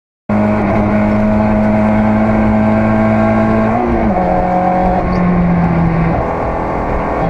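Car engine running steadily, starting suddenly a moment in. Its pitch steps down about four seconds in.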